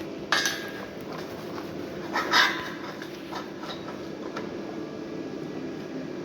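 Steel pieces clanking together twice, with a metallic ring, about half a second in and again a little over two seconds in, over a steady low hum.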